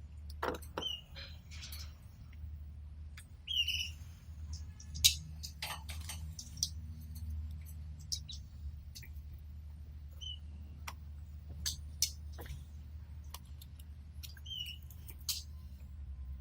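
Domestic canaries giving short single chirps every few seconds, among many sharp clicks and taps, over a steady low hum.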